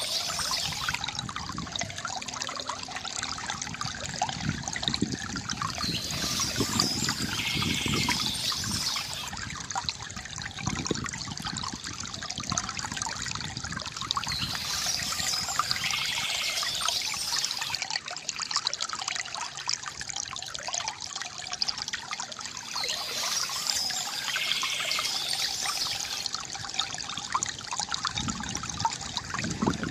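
Water trickling and gurgling from a bamboo fountain in a steady flow, with birds chirping at intervals of about eight seconds.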